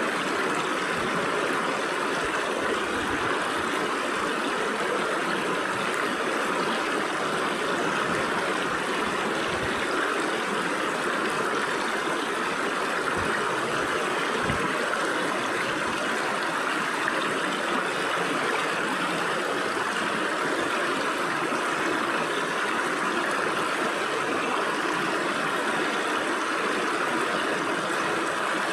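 Stream water flowing and splashing through gaps between rocks: a steady rushing and babbling, with a few brief low gurgles.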